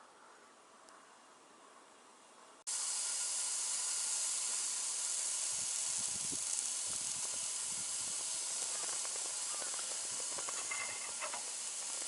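Faint insect chirping, then after a sudden cut about three seconds in, a loud steady sizzling hiss of food frying in a pan, with a few soft low knocks partway through.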